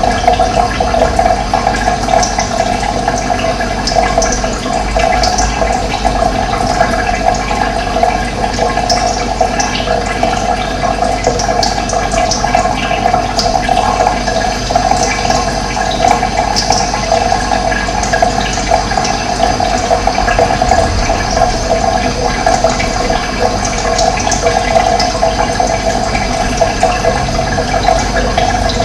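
Steady rush of running water, with brief bird chirps heard now and then above it.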